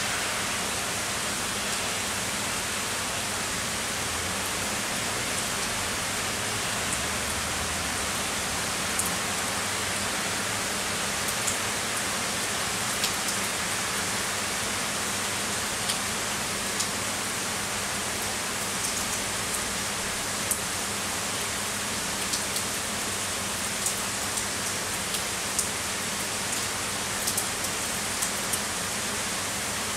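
Heavy rain falling steadily, a dense even hiss, with scattered sharp ticks of individual drops striking a nearby surface, more frequent in the second half.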